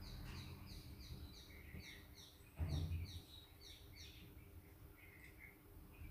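A small bird chirping in a quick run of short, high, falling notes, about three a second, that trails off about four seconds in. A dull thump comes about two and a half seconds in, over a low hum.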